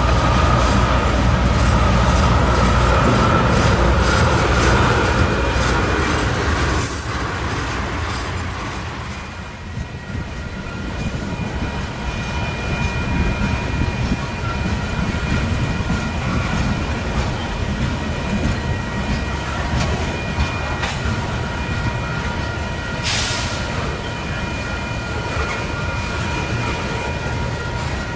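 Freight train rolling past, its cars rumbling and clattering on the rails. It is loudest for the first several seconds, then settles into a steady rumble with a thin, high wheel squeal running over it.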